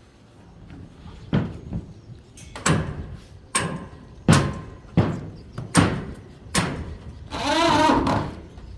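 Hammer blows, about seven strikes spaced under a second apart, some leaving a short metallic ring. Near the end they give way to a wavering, pitched sound about a second long.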